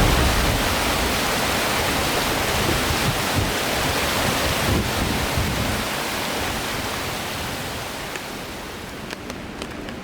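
Steady rushing noise with no distinct tones, fading gradually over the last few seconds, with a few faint ticks near the end.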